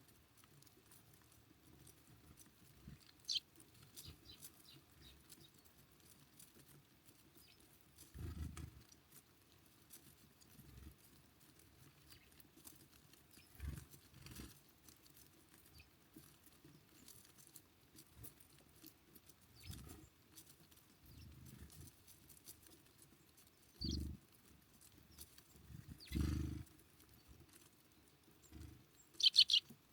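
Small birds at a feeder: a few short, high chirps, with the loudest cluster near the end, and scattered soft thuds and taps as birds land, flutter and peck.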